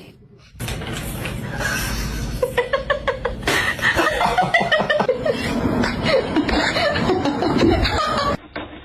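People laughing, with quick repeated bursts of laughter.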